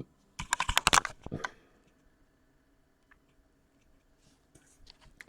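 A quick run of clicks and rattles of small laptop plastic and metal parts being handled, lasting about a second, followed by a few faint ticks near the end.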